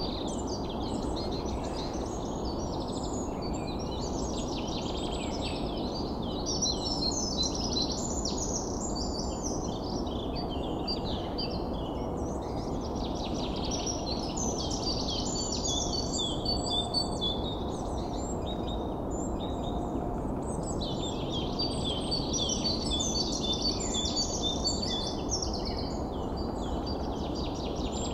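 Many birds chirping and trilling continuously over a steady low rushing background noise.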